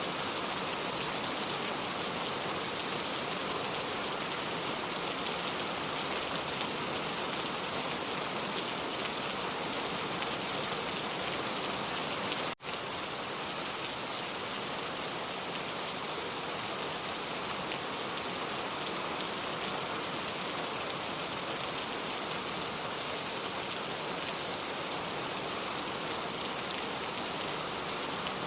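Heavy pouring rain, a steady dense patter of raindrops on surfaces. The sound cuts out for an instant about halfway through, then carries on as before.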